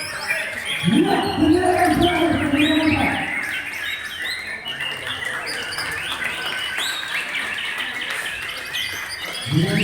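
Several white-rumped shamas (murai batu) singing at once: a dense, continuous chorus of overlapping whistles, chirps and trills.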